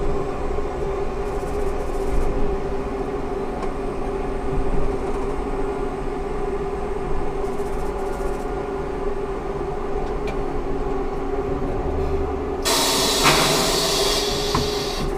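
Ikarus 280T trolleybus with GVM electrical equipment, heard on board: a steady electrical hum with a pitched whine over a low rumble. Near the end a loud hiss of compressed air starts.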